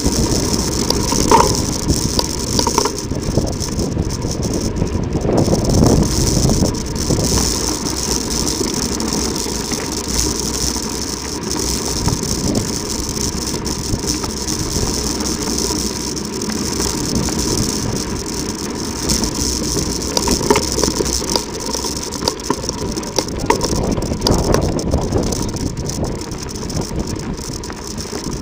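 Mountain bike descending a loose volcanic gravel track: tyres crunching on the gravel and the bike's frame and chain rattling over the bumps.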